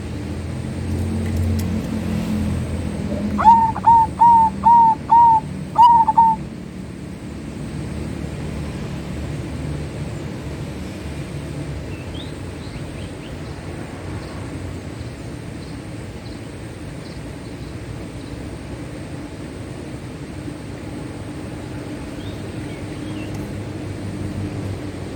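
Zebra dove (perkutut) cooing about three seconds in: a quick run of about six short, clear notes with the last one drawn out, over in about three seconds. A low rumble lies under the first few seconds, and faint high chirps of other small birds come later.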